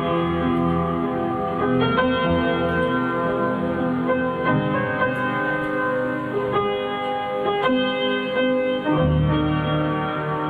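Instrumental music: sustained keyboard chords with piano-like notes changing every second or two, a deeper held note entering near the end.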